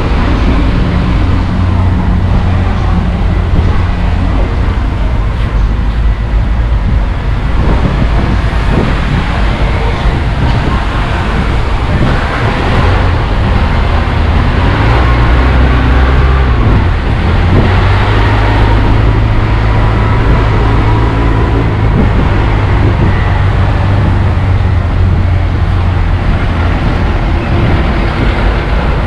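Heavy truck engine running with a steady low rumble, its pitch and level shifting a few times.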